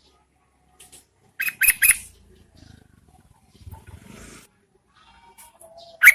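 Yellow-vented bulbul calling: a quick burst of three loud, sharp notes about a second and a half in, and two more near the end.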